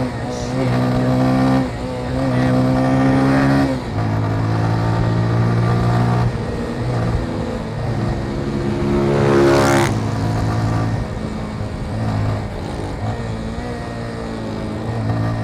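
Motorcycle engine running under way, its pitch stepping between gears in the first few seconds and rising and falling with the throttle. A louder swell comes and goes just before the tenth second.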